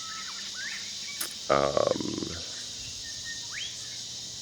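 Steady high-pitched chorus of insects, with a few short bird chirps scattered through it. About a second and a half in, a brief voiced sound from a person, like a hum or murmur, rises over it.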